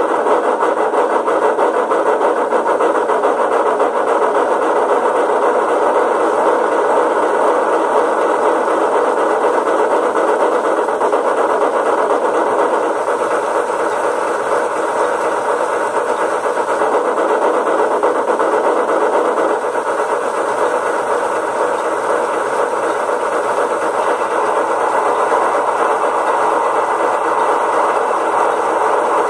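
Sound decoder of a Rivarossi H0 Big Boy model locomotive playing steam-locomotive running sound through its small built-in speaker, a steady, fast, even beat.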